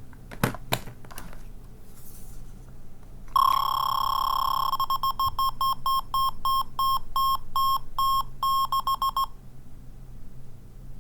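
Small electronic sound toy from a capsule machine, clicked, then sounding a high buzzer-like beep: one held tone for about a second and a half, then a run of quick beeps of uneven length that stop about nine seconds in.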